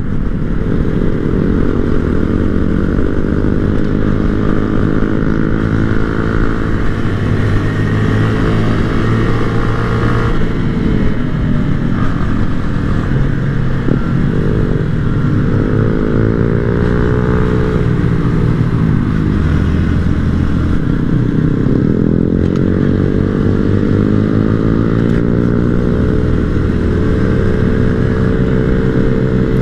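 Small-bore motorcycle engine under way, revving through the gears on a twisty road. Its note holds high at first, drops about ten seconds in, then climbs and falls again several times as the throttle is rolled on and off and gears are shifted.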